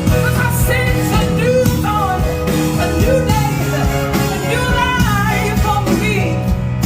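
Live band music with a singer's voice bending and wavering through the notes over steady bass and sustained chords.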